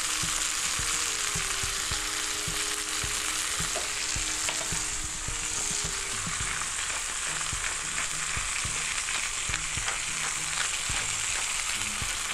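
Chicken breasts sizzling steadily in hot grapeseed oil in a cast-iron skillet, with scattered crackles and pops. The sizzle is the sign that the pan is hot enough for a good sear.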